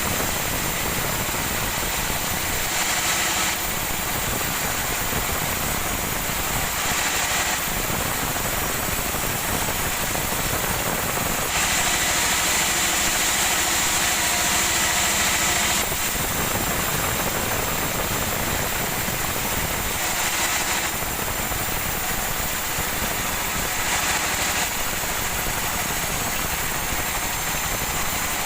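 Sawmill machinery running steadily, with a few stretches of louder, hissier noise, the longest about four seconds near the middle, as wood is fed through.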